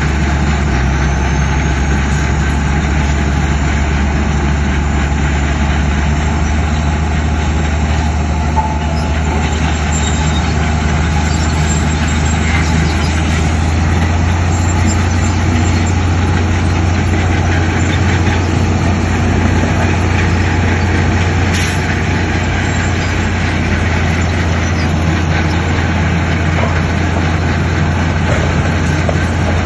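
Heavy diesel earthmoving machinery running steadily, a loud, constant low engine drone with no breaks.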